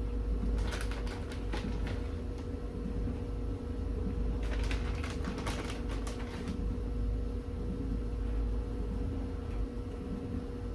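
Two spells of crackly, clicking handling noise from kitchen work, about a second and a half each, over a steady low hum.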